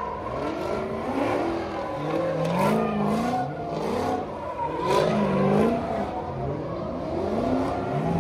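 Car engines revving up and down again and again, the pitch rising and falling several times, with more than one engine heard at once and a few sharp cracks among them.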